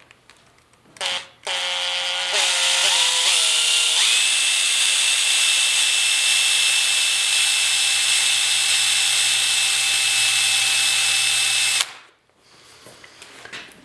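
Electric drill with a 9/64-inch bit drilling a hole. The motor speeds up in steps over a couple of seconds, then runs steady with a high whine for about eight seconds and stops abruptly. The bit is one that might need sharpening.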